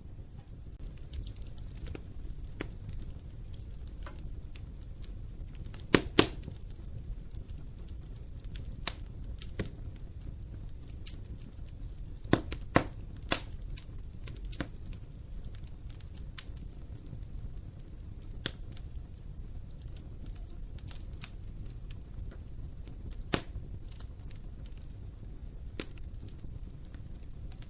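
Wood fire burning with a steady low rumble and irregular sharp crackles and pops, the loudest pops about 6 seconds in and again around 12 to 13 seconds.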